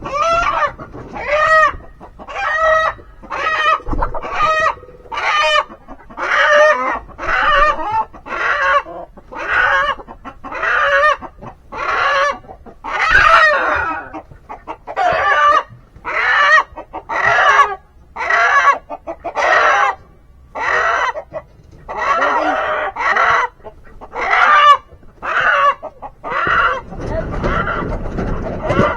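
Chicken calling over and over in loud, short, evenly spaced squawks, about three every two seconds, without a break.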